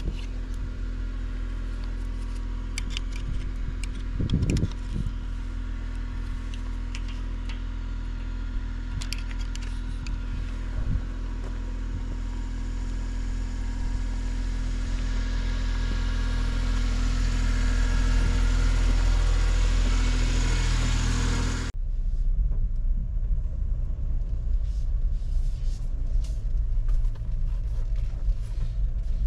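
Vehicle engine and road noise while driving, a steady low rumble that swells louder about two-thirds of the way through. The sound then cuts off suddenly and changes to a quieter rumble with scattered clicks.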